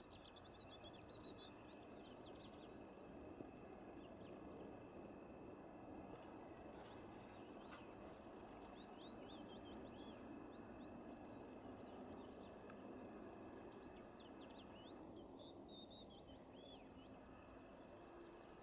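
Faint outdoor ambience: an even low background noise, with small birds twittering in three short runs of quick, high chirps.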